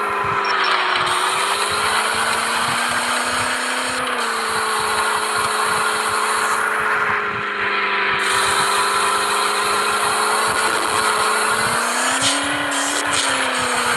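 Mahindra Thar's engine running steadily under way, its pitch drifting a little and rising briefly near the end.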